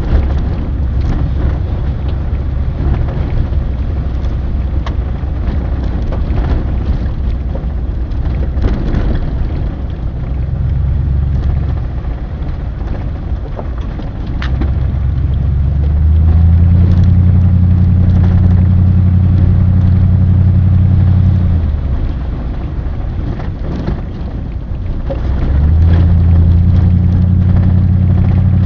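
A vehicle engine running with a steady rumble, its pitch and loudness stepping up and easing off several times as it speeds up and slows.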